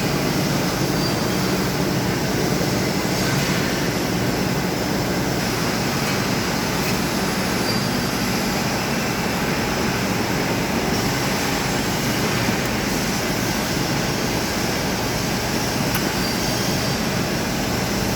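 Thermal fogging machine's pulse-jet engine running steadily, a loud continuous buzzing drone.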